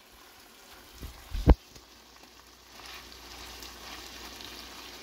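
Ground beef and vegetables sizzling in hot grease in a skillet while a paper towel is pressed into the pan to soak up the grease. The sizzle is faint at first and gets louder a little past halfway; a dull thump about a second and a half in, with a softer one just before it.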